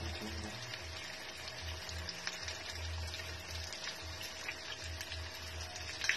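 Breaded eggplant-and-tuna fillets frying in a pan of oil: a steady sizzle with many small scattered pops, over a low uneven rumble.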